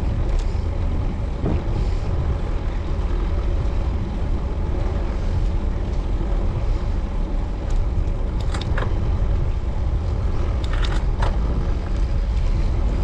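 Wind rumbling steadily on a camera microphone while riding a road bike, with a few brief sharp sounds about eight and eleven seconds in.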